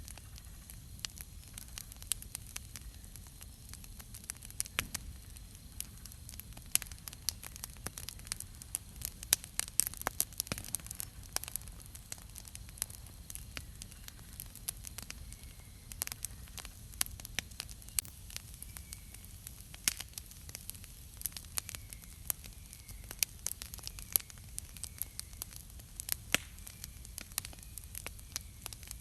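Wood campfire crackling, with frequent sharp irregular pops over a low steady hiss of burning. In the second half a bird chirps faintly, one short call about once a second.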